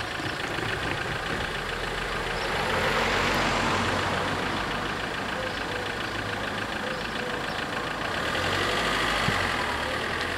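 Car engine idling close by, then pulling away across the crossing near the end. Steady traffic noise swells twice.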